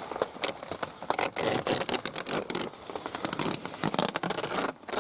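Irregular scraping, rubbing and clicking of straps being pulled through and fastened around sleeping mats on a bench.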